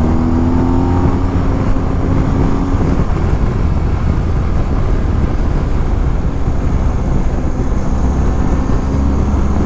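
BMW R1250GS boxer-twin motorcycle engine running under way, heard under heavy wind rush on the helmet microphone. A steady engine note stands out for about the first three seconds, then sinks into the wind noise.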